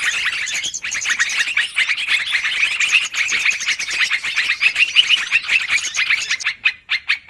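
Yellow-vented bulbuls (trucukan) in noisy, agitated chattering: a dense, unbroken run of rapid chirps that thins into separate chirps near the end.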